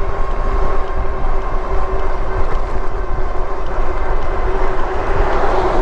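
Wind rushing over a chest-mounted camera's microphone on an e-bike moving at speed, with a steady whine from the Lectric e-bike's hub motor underneath. The rushing swells near the end.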